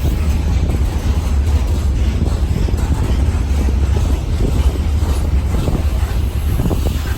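Long train of railway wagons rolling past behind a diesel locomotive: a steady low rumble with scattered clicks of wheels over the rails.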